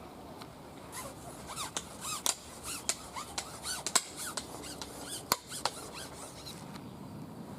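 Small birds chirping, a run of short arched calls, with a few sharp clicks in between, the loudest about four and five seconds in.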